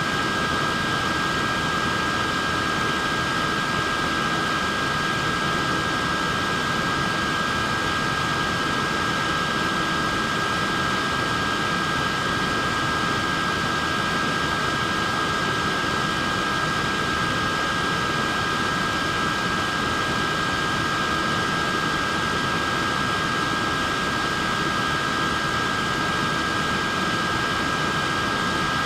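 Wearable neck fan running steadily: an even rush of air with a constant high motor whine.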